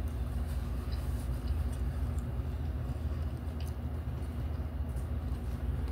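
Eating sounds: chewing noodles and shrimp, with a few faint clicks of plastic forks and spoons in paper noodle cups, over a steady low rumble.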